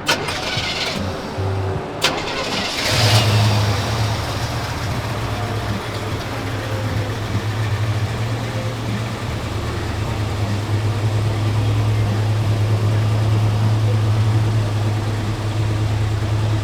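A car engine starts about three seconds in and then runs steadily at idle with a deep, even hum. Before it catches there are a sharp click and short bursts of hiss.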